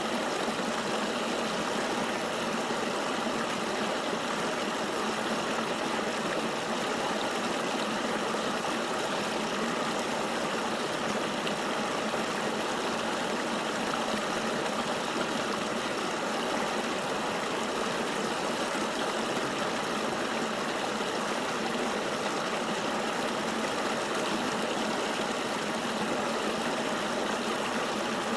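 Flowing river water rushing steadily, an even hiss with no splashes or changes.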